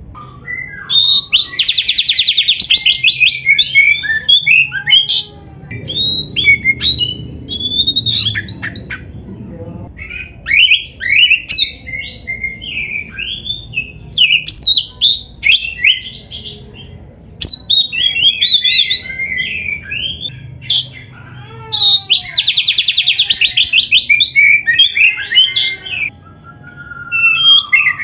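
Oriental magpie-robin (kacer) in full song, a busy run of varied whistled and chattering phrases packed with mimicked calls. Fast rattling trills come about a second in and again about 22 s in.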